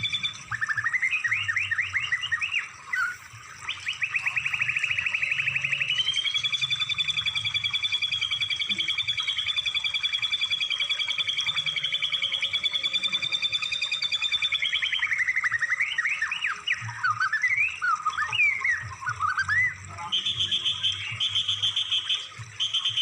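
Recorded songbird song from a tutoring track for caged birds. It starts with rapid trills, holds one long, steady buzzing trill for about nine seconds, then turns to quick whistled notes gliding up and down, and near the end repeats a short trill about twice a second.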